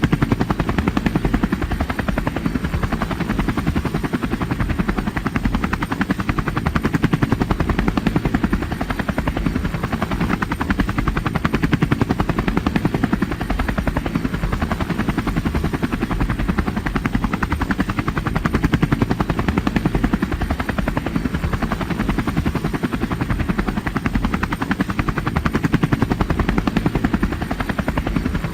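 Aircraft noise: a loud, steady, fast chopping drone that does not change through the whole stretch.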